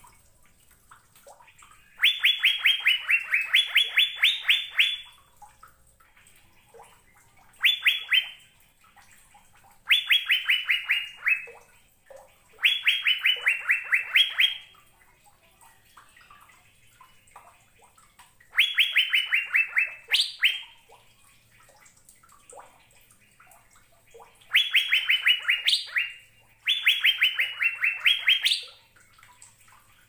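Asian fairy-bluebird (cucak biru) singing: seven quick runs of clear, falling whistled notes, several notes a second, some runs ending on a sharp upward note, with short pauses between the runs.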